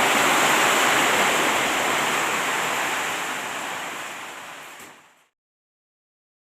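Heavy rain with wind, a steady, dense rush that fades out from about three seconds in and is gone just after five seconds, leaving silence.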